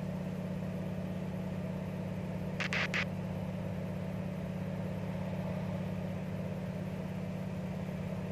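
de Havilland Canada DHC-2 Beaver floatplane's engine and propeller droning steadily in flight, climbing through a mountain pass. About two and a half seconds in, three short clicks sound in quick succession.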